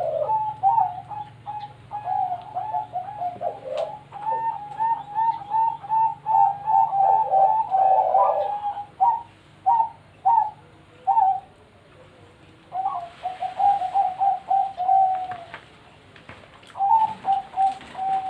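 Zebra dove (perkutut) cooing in rapid runs of short, pitched coo notes, pausing twice in the second half before the notes resume.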